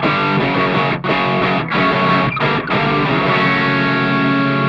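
Electric guitar played through the overdrive section of a Mooer Red Truck pedal with the gain turned fully up: a few picked chord stabs with short breaks, then a chord left to ring out about three seconds in, showing the maximum amount of overdrive.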